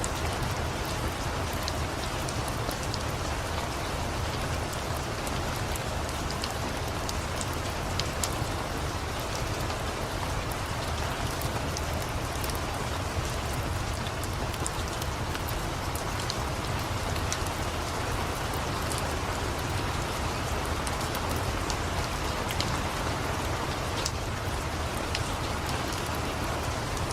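Steady rain falling, layered with the scattered sharp crackles of a wood fire.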